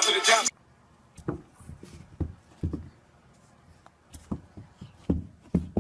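Hip-hop music cuts off sharply, then a quiet room with scattered soft low thumps and knocks, about six of them at uneven intervals.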